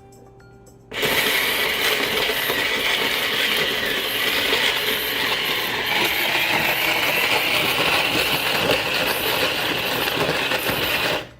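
Electric snow cone maker shaving ice cubes, its motor-driven blade grinding through the ice loud and steady. It starts about a second in and cuts off suddenly near the end.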